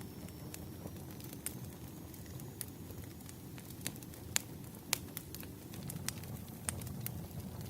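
Wood fire crackling: irregular sharp pops and snaps, two of them louder a little past the middle, over a steady low rumble of background ambience.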